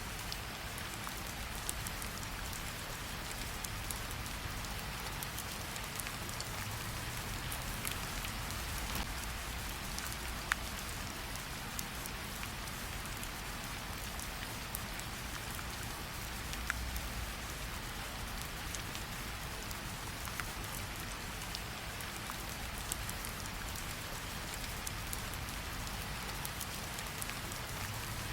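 Steady rain falling, mixed with the scattered crackles and pops of a fireplace; a low rumble runs underneath.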